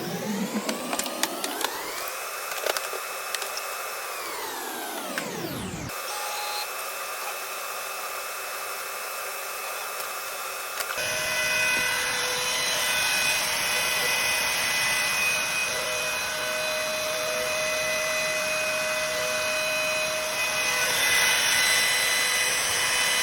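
CNC router at work routing grooves into a wooden cutting board. A machine whine rises in pitch, holds, then falls over the first six seconds. It then runs steadily and turns louder and noisier about eleven seconds in.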